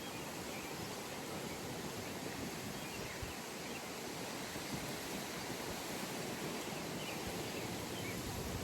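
Steady outdoor ambience: an even rush of wind noise with a few faint, distant bird chirps.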